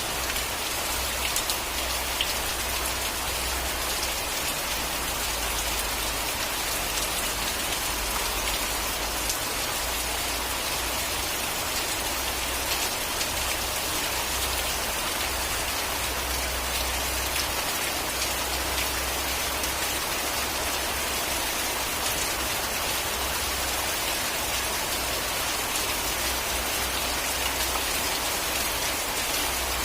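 Steady rain falling: an even, unbroken hiss with scattered individual drop ticks.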